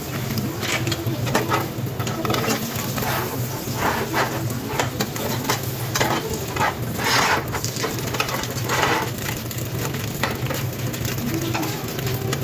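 French toast sizzling in butter in a nonstick frying pan, with a metal spatula scraping along the pan several times as the slices are slid and turned.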